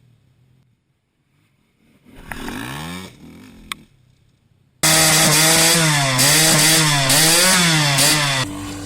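Small motorcycle engine revving: a short rev rising in pitch about two seconds in, then a loud, sustained run from about five seconds in, its pitch swinging up and down as the throttle is worked.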